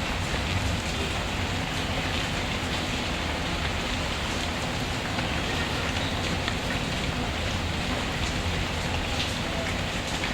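Steady rainfall, with the light crackle of a wood fire burning in a fireplace.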